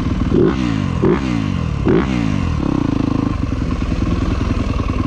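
Yamaha YZ250F single-cylinder four-stroke dirt bike engine being ridden hard, with three quick throttle bursts about a second apart, each falling off in pitch, then pulling steadily.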